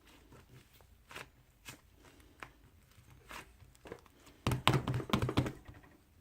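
Handling noises: scattered light taps and clicks, then about four and a half seconds in a dense burst of rapid clicking and crinkling that lasts about a second.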